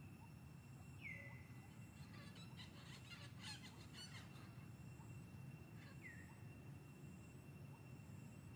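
Faint forest ambience under a low steady rumble, with distant birds calling: a falling whistle about a second in and another near six seconds, and a brief spell of quick chirps in between.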